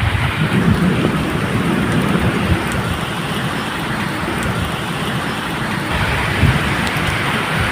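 Steady medium rain falling, an even hiss, with low thunder rumbling unevenly underneath.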